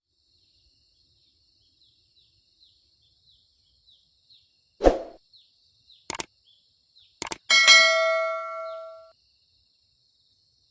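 Three sharp knocks, then a metallic clang that rings on with several clear tones, fading over about a second and a half. Under them runs a steady high buzz with short falling chirps.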